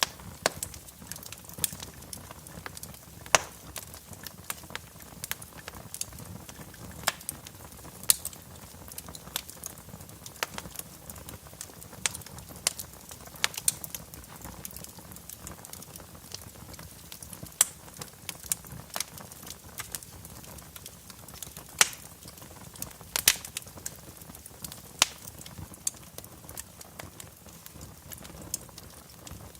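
Fire in a fireplace crackling, with irregular sharp pops over a low steady hiss.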